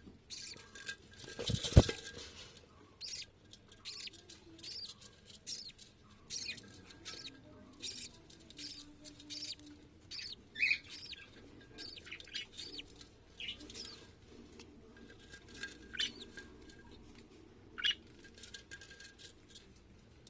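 Budgerigars chirping in many short, high calls, with one sharp knock about two seconds in.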